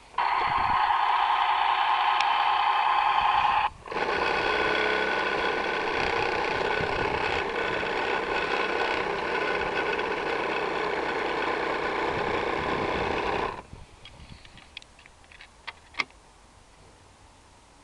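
Battery-powered toy vehicle's electronic sound effects from its small speaker: one steady effect for about four seconds, a brief break, then a longer, busier one that stops about thirteen seconds in, followed by a few faint clicks.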